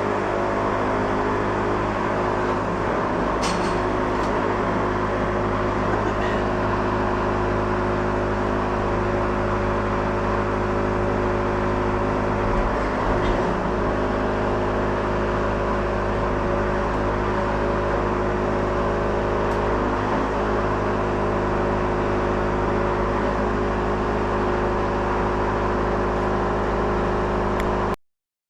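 Wood-Mizer LT70 sawmill's engine running steadily at an even speed, with a few faint clicks; it cuts off abruptly near the end.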